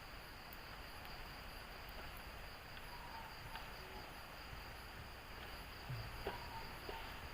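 Insects chirring steadily in the forest, a continuous high drone with a faster pulsing chirp above it. A few light clicks and knocks come about six seconds in.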